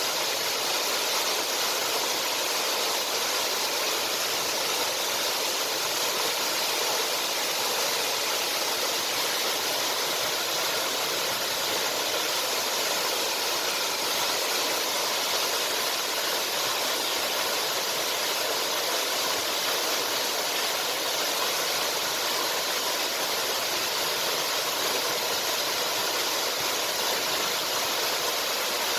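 Waterfall: a steady, even rush of falling water, bright and hissy, with no break or change.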